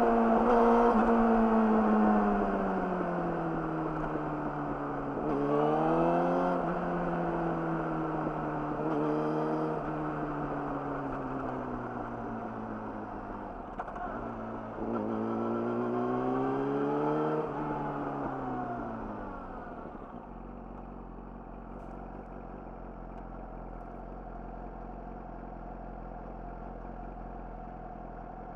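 Yamaha YZF-R6 inline-four running through an Akrapovic slip-on exhaust. The revs fall away, rise briefly about six seconds in, and climb again with a throttle pull around fifteen seconds in. About twenty seconds in they drop back to a steady idle.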